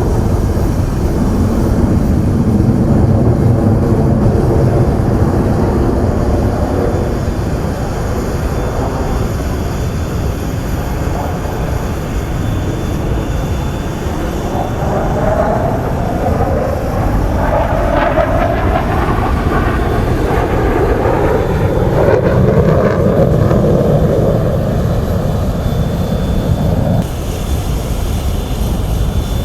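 Su-30SM fighter jets' twin AL-31FP turbofans running loud in an aerobatic display, a steady rumble with a jet passing about halfway through, its sound sweeping up and then down in pitch.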